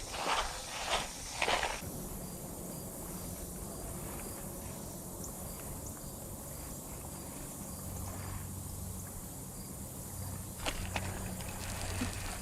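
Footsteps for the first couple of seconds. Then an insect chirps faintly and evenly over a low steady hum, with a couple of sharp clicks near the end.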